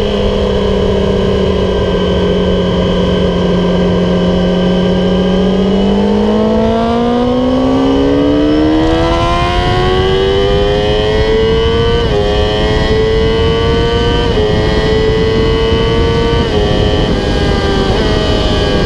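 Yamaha YZF-R6 sport bike's inline-four engine with an MGP Growler exhaust, heard onboard. It holds a steady note for the first several seconds, then climbs in pitch as the bike accelerates, with three quick upshifts in the second half, each a brief dip in pitch. A steady rush of wind noise runs underneath.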